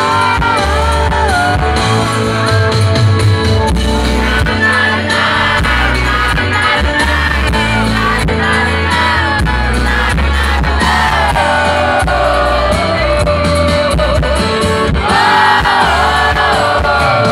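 Live sertanejo band music played loud through a concert sound system, with a gliding sung or played melody over a steady beat, and crowd shouts mixed in.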